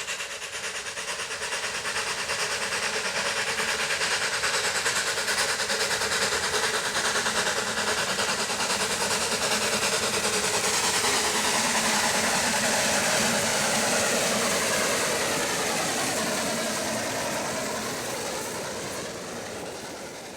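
A narrow-gauge steam train running past, growing louder, then fading as it moves away, its pitch dropping as it goes by.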